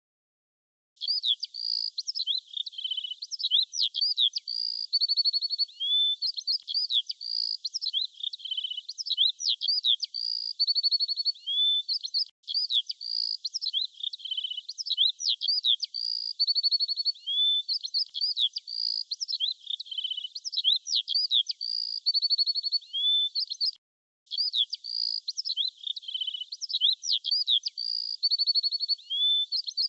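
Small songbirds chirping: quick high chirps, slurred whistles and short trills, one after another. The same run of calls repeats about every 11 seconds, each time after a brief break, as in a looped recording.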